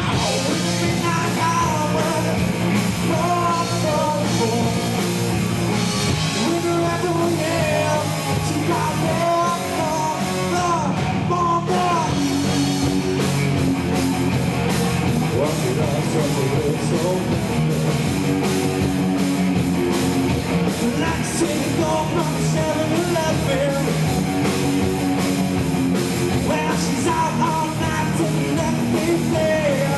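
Live rock band playing at full volume: electric guitars, bass and drums with melodic lines over them, recorded from the crowd with muddy, distorted sound.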